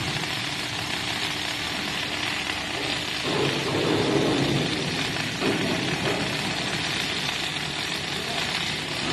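Steady mechanical noise of factory machinery running, with a faint steady hum in the first few seconds and louder swells around the middle.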